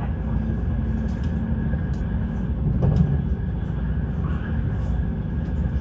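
Steady low rumble of a Frecciarossa ETR 500 high-speed train running, heard from inside a passenger coach, with a few faint clicks about two and three seconds in.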